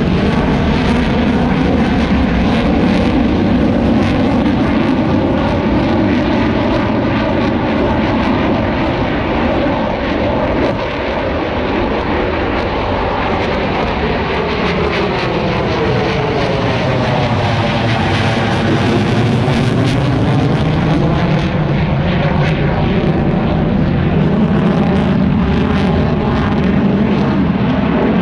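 Fixed-wing aircraft engines running loud and steady during a flying display, with a phasing, swirling quality whose pitch sweeps down and back up about two-thirds of the way through as the aircraft passes.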